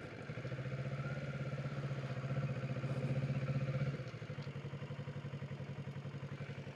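Kawasaki Ninja 650's parallel-twin engine running at a steady pitch, a little louder for a few seconds and easing back about four seconds in.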